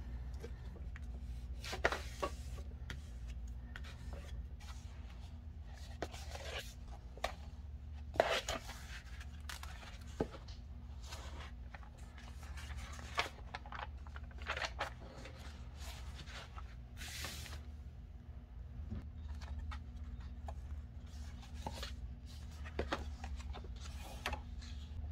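Thin paper being handled, cut or torn on a work surface: scattered crisp taps and rustles with a few short swishes, the longest about two-thirds of the way through, over a steady low hum.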